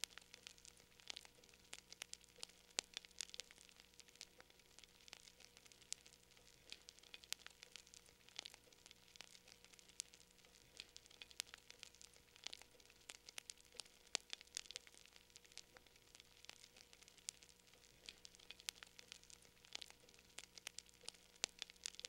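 Wood fire in a fireplace crackling faintly, with many small sharp pops at irregular intervals.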